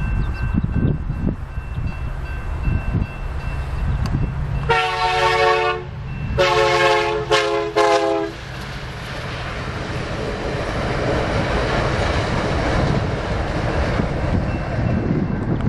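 Crossing bell ringing steadily, then a VIA Rail F40PH-2 diesel locomotive sounds its horn in the grade-crossing pattern (long, long, short, long) about five seconds in. After that the seven-car passenger train passes at speed with a steady rushing wheel-on-rail noise.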